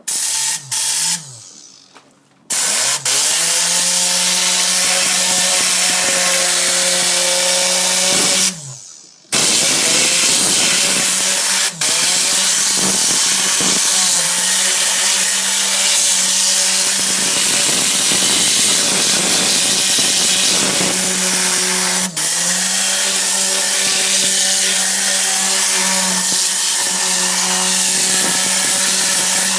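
Matador detailing gun blowing compressed air: a loud rushing hiss with a steady whirring tone. Two short blasts at the start, then long continuous runs, with the trigger released for about a second near the 8 to 9 second mark and briefly twice more.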